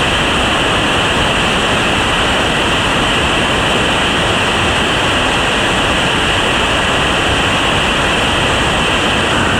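Whitewater river rapids at high water, a steady loud rush of water.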